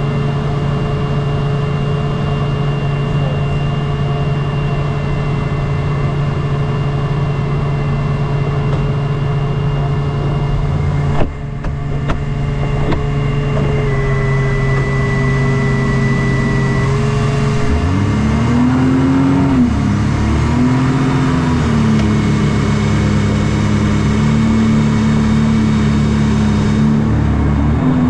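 Engine of a shark-shaped jet-propelled boat running steadily, with a brief sudden dip near the middle. Later it revs up and down twice in rising and falling pitch, then holds at a higher steady speed.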